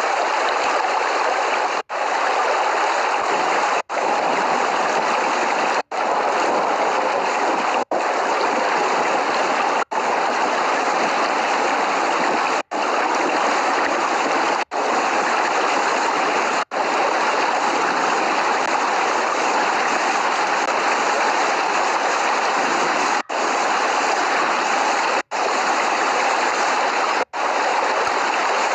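Steady rushing water sound of a looped rain recording, with no thunder. Very brief silent gaps cut in about every two seconds, like splice points in the loop.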